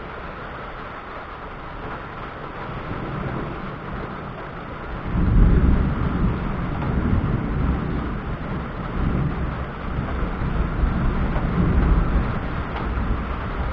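Thunder rumbling from a thunderstorm, over a steady hiss. It breaks in suddenly about five seconds in and rolls on in several deep swells, loudest just after it starts and again near the end.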